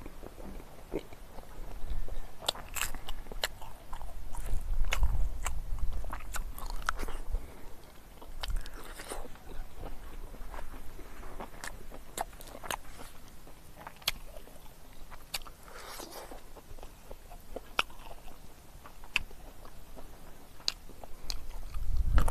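A person chewing a mouthful of rice and curry eaten by hand, with many short, sharp wet mouth clicks at an irregular pace and a few louder stretches of chewing.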